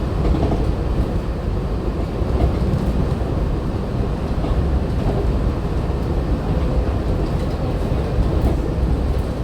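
Walt Disney World Mark VI monorail cruising between stations, heard from inside the passenger car: a steady low rumble of the running train.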